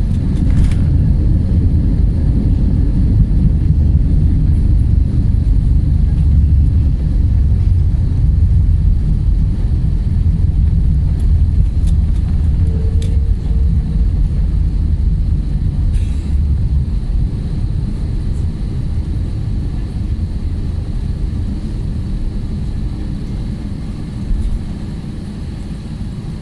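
Loud, deep rumble of a jet airliner as heard from inside the cabin during landing, easing off gradually over the last ten seconds as the aircraft slows on the runway.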